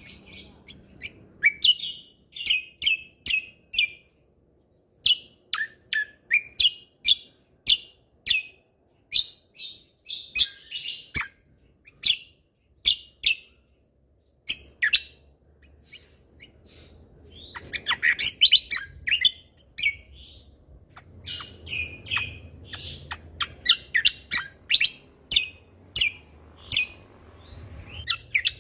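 A cucak kombo (kecial kombok, the crested white-eye) singing in rapid series of short, sharp, high chirps. The chirps come in bursts separated by brief pauses.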